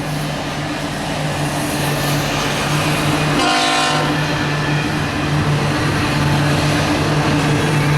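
Union Pacific doublestack freight train led by C45AH diesel locomotives running past with a steady low engine drone, and a short horn blast about three and a half seconds in.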